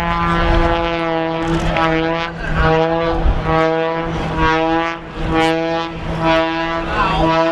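Aerobatic propeller plane's engine droning steadily through a manoeuvre, its tone wavering and swelling every second or so.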